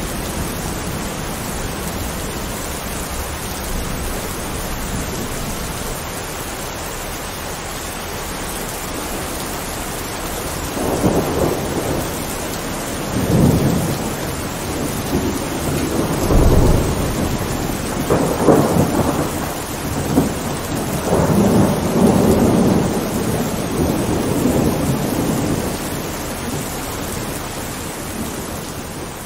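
Heavy rain falling steadily, with thunder rumbling in several swells from about a third of the way in until a little before the end.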